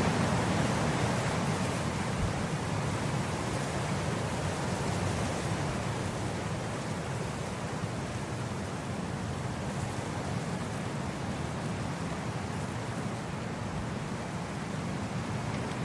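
Wind blowing across grass: a steady rushing noise, a little stronger at first and settling after a few seconds.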